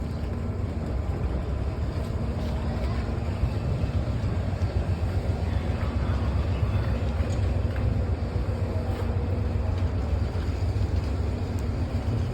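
A train running nearby: a steady low rumble with a faint steady hum above it, growing a little louder after about two seconds.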